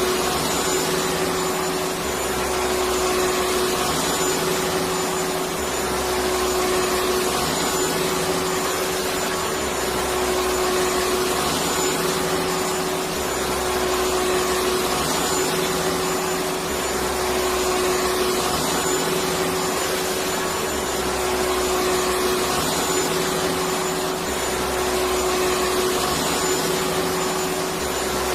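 Electric vacuum cleaner running steadily: a constant motor whine over a rushing hiss of air, with a faint low throb that recurs every two and a half seconds or so.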